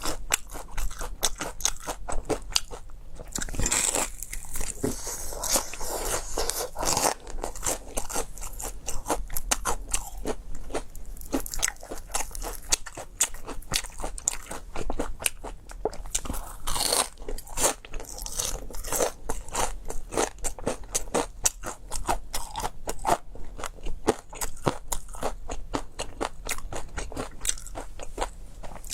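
A person biting and chewing crispy fried food: dense, irregular crunches one after another, with no pauses.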